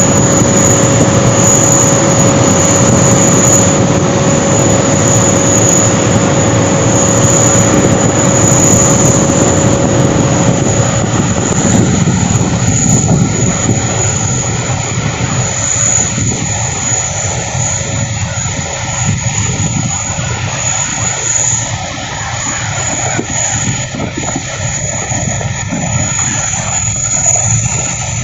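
Loud, continuous aircraft engine noise with a steady high whine, easing somewhat about halfway through.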